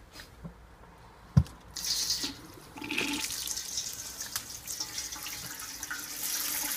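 A sharp knock about a second and a half in, then water starts running from a garden tap into a metal stock pot and keeps running steadily.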